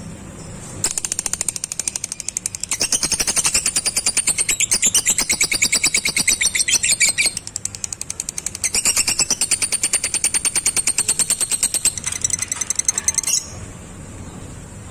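Lovebird 'ngekek': a long, rapid, shrill chattering trill of many evenly repeated notes, in two long runs with a short break in the middle, the second ending abruptly.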